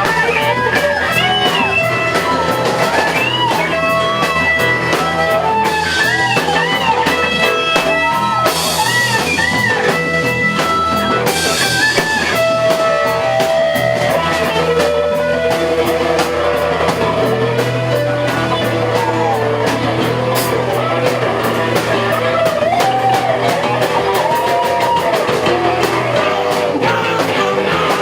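Live rock band playing: electric guitar with bending, wavering notes over bass and drum kit, with cymbal crashes about nine and twelve seconds in.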